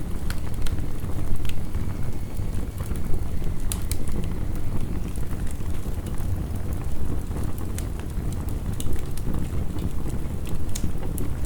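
Wood fire crackling, with scattered sharp pops, over a steady low rushing noise of heavy rain.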